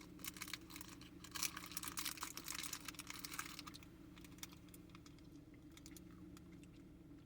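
Chewing a hard, sticky gummy candy: a rapid run of small wet clicks and smacks for about four seconds, then it dies away.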